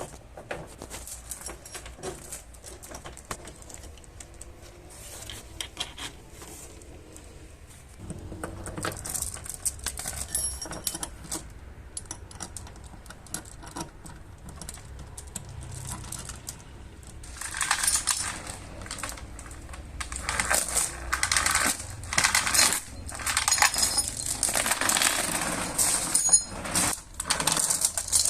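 Metal hand tools tapping and clinking on car body sheet metal in irregular light strikes, sparse at first and growing much busier and louder about two-thirds of the way through.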